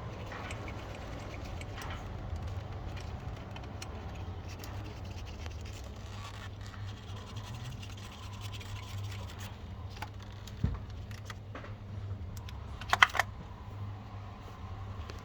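Hand work on a car: faint scraping and scattered clicks over a low steady hum, a single dull thud about eleven seconds in and a brief sharp clatter of clicks near thirteen seconds.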